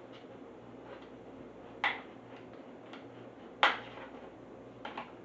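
Packaging being handled and opened by hand: two sharp clicks about two seconds apart, the second the loudest, then a few faint ticks near the end, over a steady low hum.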